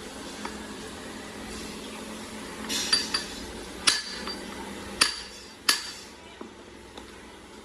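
Hammer striking metal four times, about a second apart, each blow ringing briefly, over a steady workshop hum.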